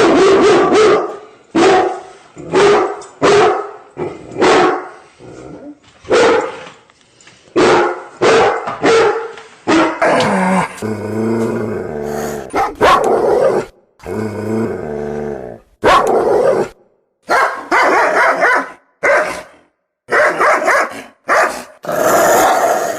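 Dogs barking in quick repeated barks, about two a second. About ten seconds in the recording changes to two longer, deeper drawn-out growls, each a couple of seconds long. Then separate barks resume.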